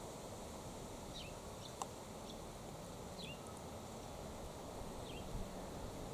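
A bird giving short, downward-sliding chirps, one about every two seconds, over steady outdoor background noise, with a single sharp click a little under two seconds in.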